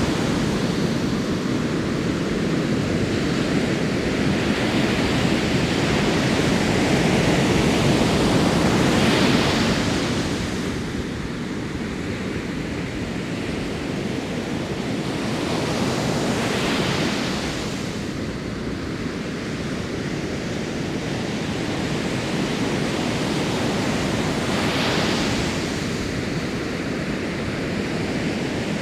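Ocean surf on a beach: a steady rush of water with a wave breaking about every eight seconds, three times.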